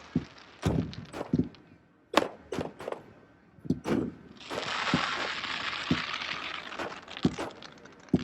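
Fireworks going off: a quick irregular series of sharp bangs and cracks, with a dense hiss from about four and a half seconds in.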